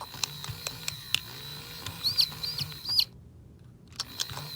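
Battery-powered 2008 Hasbro FurReal Friends baby parrot toy running: scattered clicks and a low hum from its moving mechanism, with three short, high electronic chirps about two seconds in.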